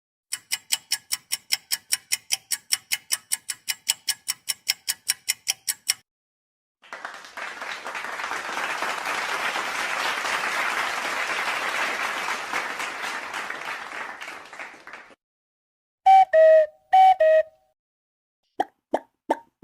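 A run of separate sound effects. First, about six seconds of rapid alarm beeping at about five beeps a second. Then about eight seconds of applause, followed near the end by three short pitched tones and a few sharp clicks.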